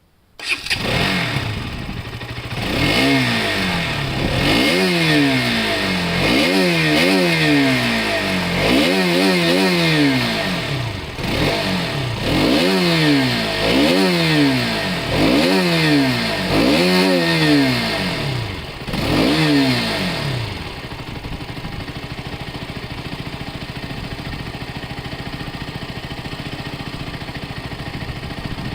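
Motorcycle engine starting, then revved in about a dozen quick throttle blips, each pitch rising and falling back, before settling about twenty seconds in to a steady idle.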